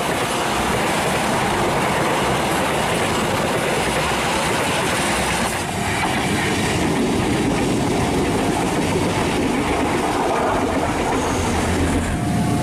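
Passenger trains running past on the track: a steady noise of wheels on rails. It changes briefly about six seconds in, as one passing train gives way to another.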